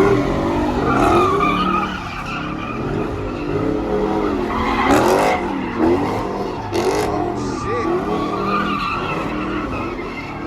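A car spinning its tires at speed, the tires squealing in long wavering screeches that rise and fall over the engine. Two short harsh bursts stand out about five and seven seconds in.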